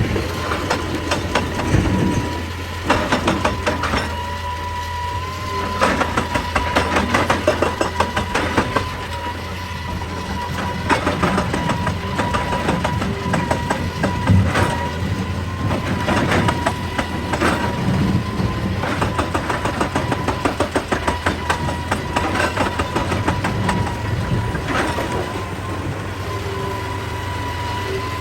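Excavator-mounted hydraulic rock breaker hammering rock in runs of rapid blows, with short pauses between the runs, over the steady drone of the excavator's diesel engine.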